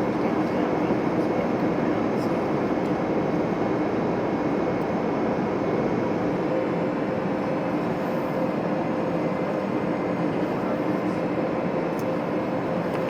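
Steady cabin noise of an Airbus A321neo airliner in flight: an even rush of airflow with the engines' drone and a few faint steady tones running through it.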